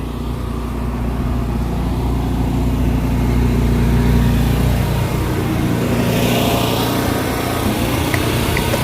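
A pressure washer's engine running steadily. About six seconds in, a hissing spray joins it.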